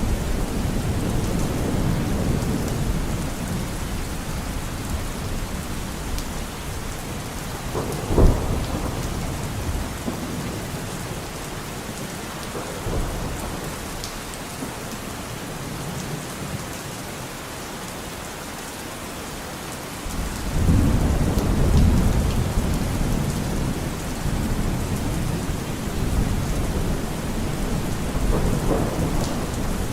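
Steady rain falling in a forest with thunder rumbling: a short sharp clap about eight seconds in and a long low rumble swelling from about twenty seconds in.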